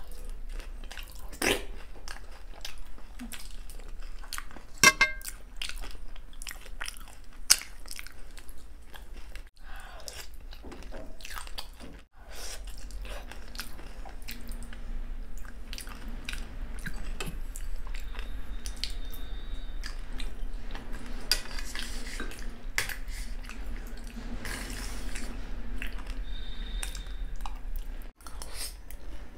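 Close-up chewing and crunching of dahi golgappa: crisp puri shells breaking under the teeth, with wet mouth sounds from the yogurt filling. About five seconds in, a metal spoon gives a sharp ringing clink against the steel plate.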